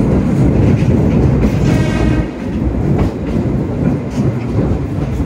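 Sagano Romantic Train running over a riveted steel truss bridge, heard from its open-air carriage: a steady, heavy rumble of wheels on rail with a few clicks, and a brief high squeal about two seconds in.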